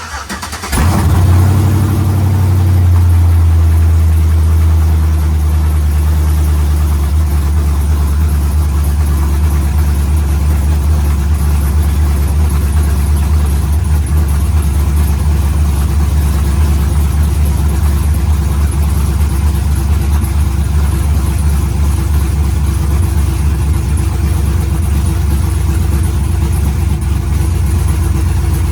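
Cammed 5.3-litre V8 of a Chevrolet Tahoe running through new headers with no exhaust fitted (open headers): it cranks and fires about a second in with a brief flare, then settles into a loud, steady idle.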